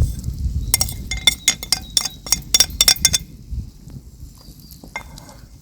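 A utensil clinking quickly against cookware, about a dozen sharp ringing taps over some two and a half seconds, as spice, salt and tomato paste are added to the stew; then it goes quiet.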